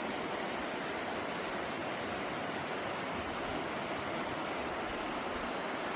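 River water rushing in a steady, even hiss.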